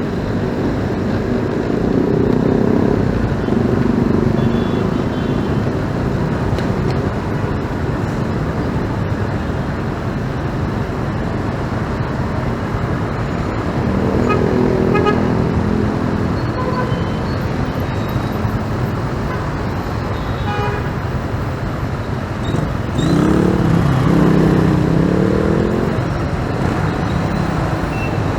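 Street traffic heard from a moving motorcycle: steady engine and road noise with other vehicles passing, and pitched horn toots and engine tones rising over the rumble a few times.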